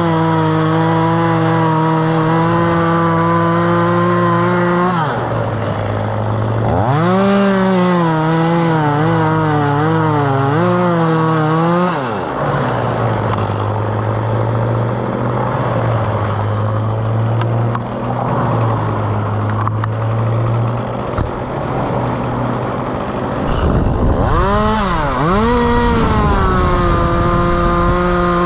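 Two-stroke chainsaw revving high, its pitch wavering up and down as it cuts. It then drops to a lower, steadier speed for about ten seconds and revs back up near the end.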